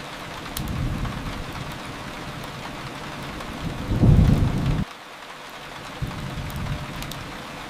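Steady rain with low rumbling swells, the biggest one about four seconds in that cuts off abruptly a second later, and scattered faint crackle clicks from a wood fire.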